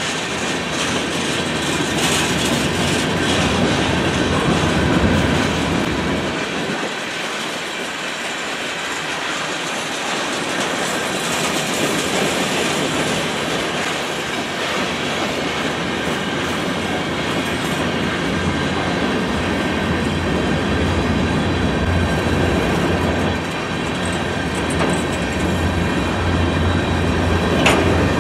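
Freight train cars rolling steadily past: steel wheels running on the rails with a continuous rumble and occasional clacks.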